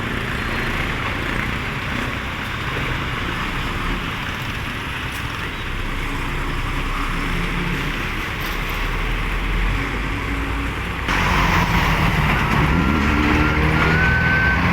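Highway traffic with big trucks passing, a steady rumble of engines and tyres. About eleven seconds in, the sound suddenly gets louder and an engine's pitch rises as a heavy vehicle accelerates.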